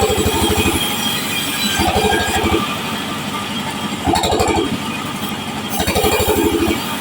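Powered wood saw running steadily with a fast, even pulse. About every two seconds a louder surge comes in as the blade cuts through waru wood, ripping it into 3×4 cm strips.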